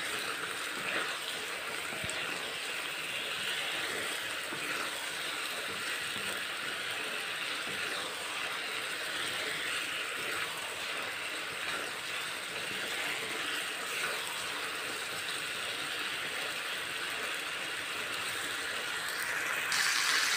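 Mustard greens and ash gourd pieces frying in a kadai with a steady sizzle, the cooking water almost boiled off, while a wooden spatula stirs them with a few light knocks against the pan.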